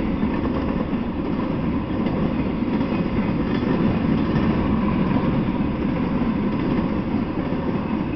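Intermodal freight train of truck trailers on flatcars rolling past: a steady noise of steel wheels running on the rails.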